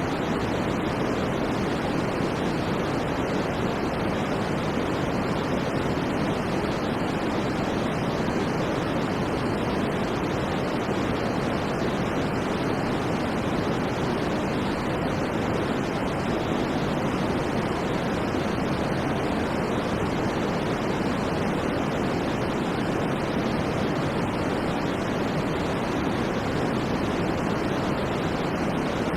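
Steady electronic sleep-aid noise, a constant rushing hiss weighted toward the low and middle range, with no change in level or pattern.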